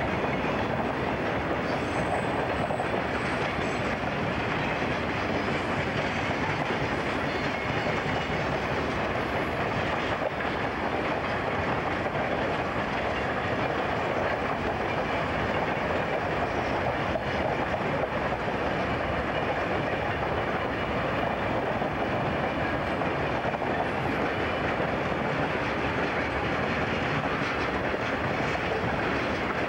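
CSX freight train rolling past, a steady noise of train wheels running on the rails that holds even throughout, heard through an old consumer camcorder's microphone.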